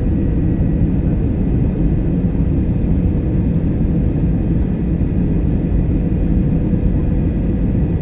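Airliner cabin noise: a steady low rumble of engines and airflow with a faint steady hum over it.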